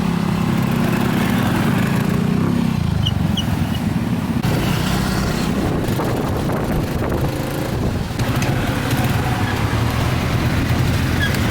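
Vehicle engine running steadily in road traffic, its note dropping about three seconds in.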